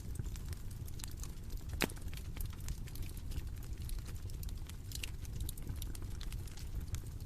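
Bonfire crackling and popping over a steady low rumble of flame, with irregular sharp snaps and one louder pop about two seconds in.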